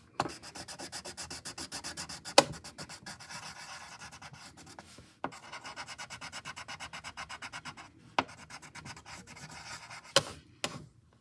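Drawing tool scratching on paper in quick, even back-and-forth coloring strokes, about six or seven a second, in three stretches with short pauses. Four sharp taps come between the stretches.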